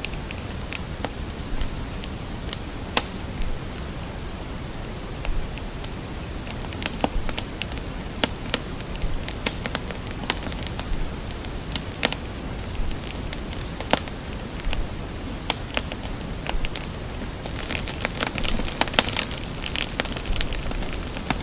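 A fire crackling, with irregular sharp pops and snaps over a steady low rumble; the pops come thicker near the end.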